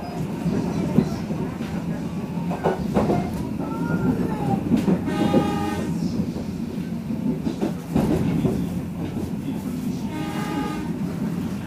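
Economy AC local passenger train running, heard from inside the carriage: a steady rumble with scattered knocks from the wheels over the rails. Two short, high, steady tones sound about five seconds apart.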